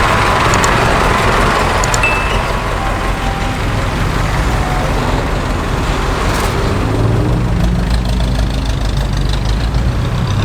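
Street traffic, with a heavy vehicle's engine running close by; its low drone grows stronger and rises a little in pitch from about seven seconds in.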